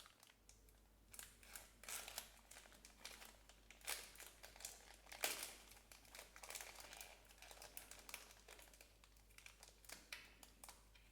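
Small product packaging being opened and handled by hand: irregular crinkling and rustling, with a few louder crackles.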